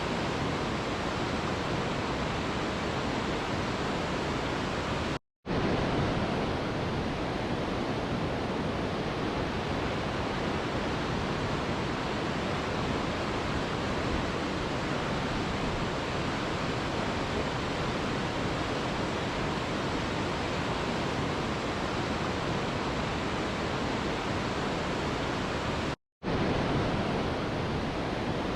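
Mountain river rushing, a steady dense roar of water. The sound cuts out completely for a split second twice, about five seconds in and near the end.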